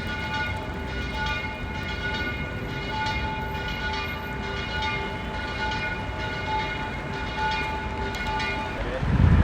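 Train running with a steady high-pitched whine of several held tones, cut off abruptly near the end.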